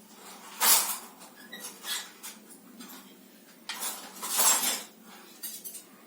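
Household containers and utensils being handled: a few separate clinks and scraping rustles, the longest lasting about a second around four seconds in.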